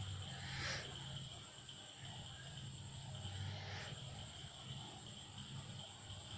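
Faint steady trilling of crickets, with two brief breathy rasps about three seconds apart.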